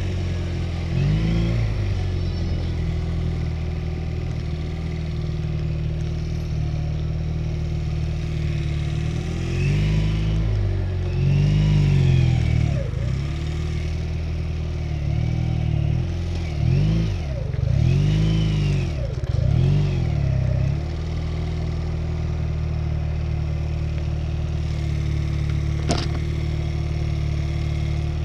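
Honda Rebel motorcycle engine running, its revs swinging up and down over and over for a stretch in the middle, then settling to a steady, even note. A single short click comes near the end.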